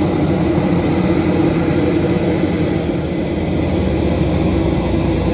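Steady rumble and whine of a parked jet airliner's machinery, with several steady high tones over it.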